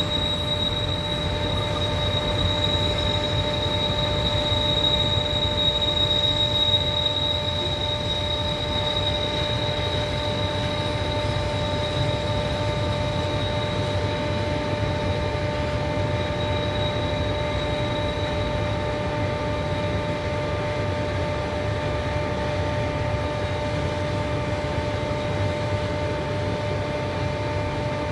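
Ride-on miniature railway train rolling on its rails: a steady low rumble with a sustained high wheel squeal, its highest tone fading out about two thirds of the way through.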